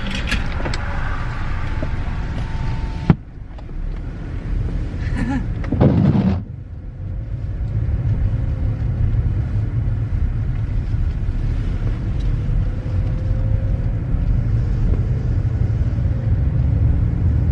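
Steady low rumble of a car heard from inside the cabin, with a sharp click about three seconds in.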